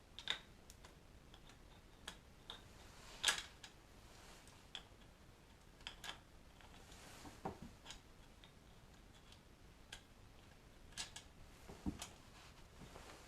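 Scattered light clicks and taps of small hard objects being handled, a dozen or so at irregular intervals over faint hiss, the sharpest about three seconds in.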